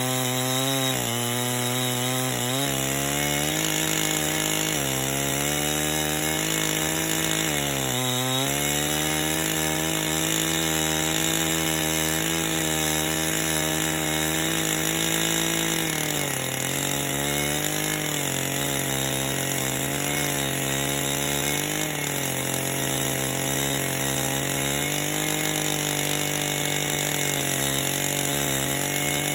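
Two-stroke chainsaw running under load while ripping a log lengthwise in a bolt-on chainsaw mill. The engine runs steadily and its pitch sags and recovers several times as the cut bogs it down.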